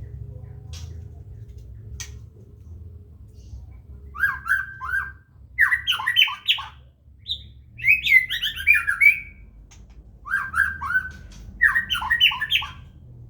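White-rumped shama calling in about five quick bursts of short, falling notes, starting about four seconds in, over a low steady hum.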